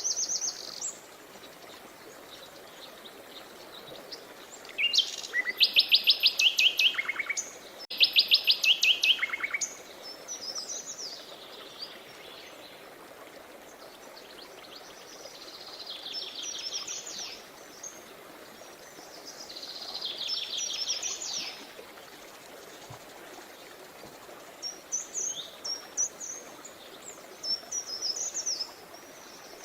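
Songbirds singing over the steady rush of flowing river water. The loudest are two fast trilled songs of rapidly repeated notes about five and eight seconds in, with quieter songs and short chirps later.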